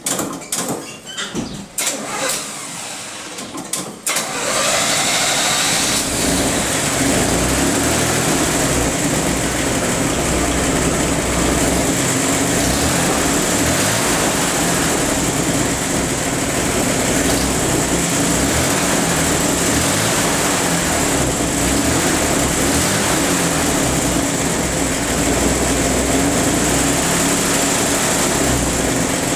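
Car engine starting about four seconds in, then running steadily at idle.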